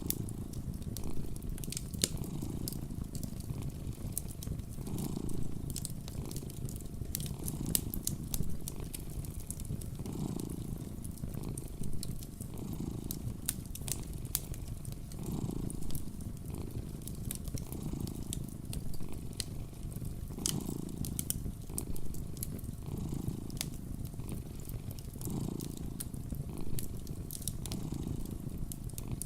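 A domestic cat purring close up, a steady low rumble that swells and eases with each breath about every two and a half seconds. Sharp little pops and crackles of a wood fire are scattered over it.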